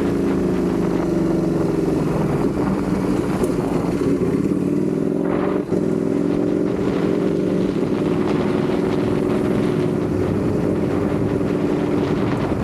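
Ducati Panigale V4 motorcycle's V4 engine running under way at a fairly steady pitch, with a brief dip in loudness a little after halfway through.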